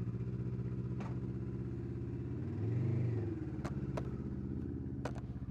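Kawasaki Versys 650 parallel-twin motorcycle engine running steadily on the move, with a brief rise and fall in revs about three seconds in. A few sharp clicks are heard over it.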